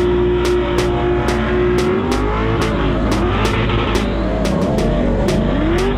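A drift car's engine held at high revs for a couple of seconds, then revving up and down repeatedly as the car slides, with tyre noise. A music track with a steady, ticking beat plays over it.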